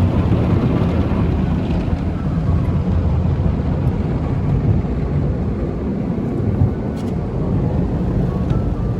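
Automatic tunnel car wash machinery (water jets, brushes or air dryers) working on the car, heard from inside the cabin as a steady, heavy noise.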